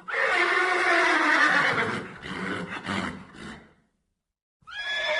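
Horse whinnying: one long, loud whinny that falls slightly in pitch, then quieter sounds trailing off, a brief silence, and another quavering call starting near the end.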